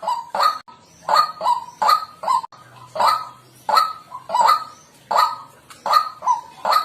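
White-breasted waterhen calling: a steady run of short, harsh 'kwak' notes, about two a second, some falling in loose pairs.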